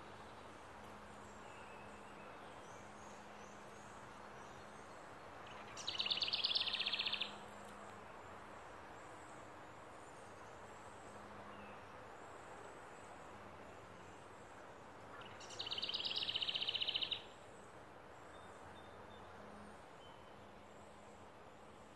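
A songbird's rapid, dry, high trill, sung twice about ten seconds apart, each trill lasting about a second and a half. Under it a steady faint outdoor background with a low hum and a few faint distant chirps.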